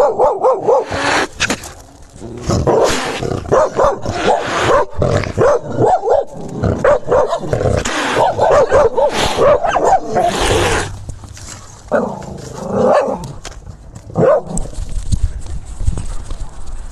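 Dogs barking and growling in repeated bursts, with short lulls about two seconds in and again near twelve seconds.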